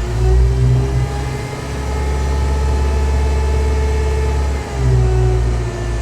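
Telehandler's diesel engine revving up and holding high revs while the hydraulics pull the boom back in. It eases off briefly about four and a half seconds in, then picks up again.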